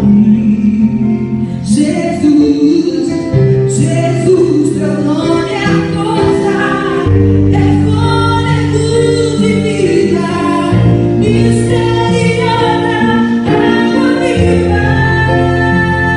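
Female voices singing a Christian worship song with instrumental backing, long held notes over a steady bass line.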